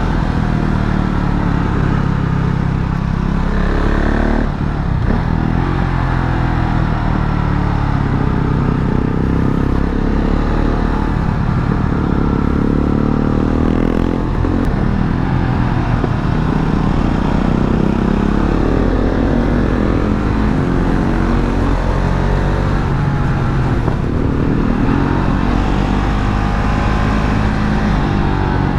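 KTM Duke 690's single-cylinder engine pulling on the move, its revs rising and falling again and again through the gears, with a brief lift off the throttle about four seconds in.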